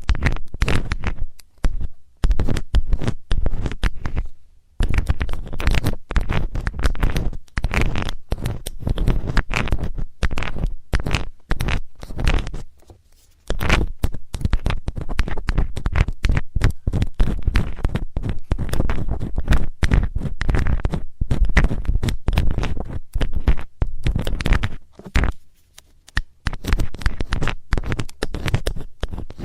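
Metal ear-cleaning tool scratching, scraping and tapping close to the microphone in a rapid, irregular run of crackly strokes and clicks, broken by short pauses about four seconds in, near the middle and near the end.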